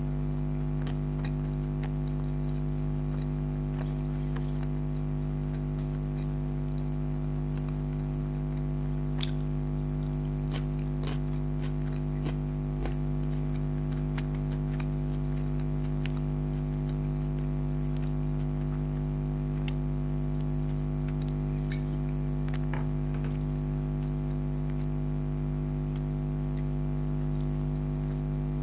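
Close-miked eating sounds: chewing and biting, with scattered short clicks and smacks, over a steady loud hum.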